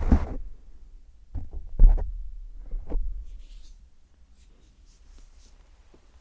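Close-up rubbing and tapping sounds on a sensitive ASMR microphone: a few short scratchy rubs with a heavy low thump about two seconds in, a brief hiss a little later, then it goes much quieter for the last couple of seconds.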